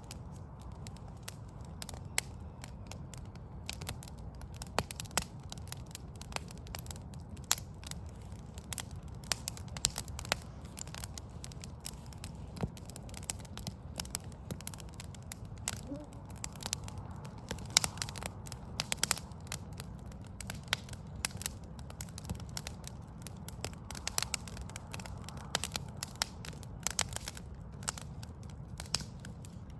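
Wood fire of burning logs crackling, with frequent irregular sharp pops and snaps over a steady low rumble.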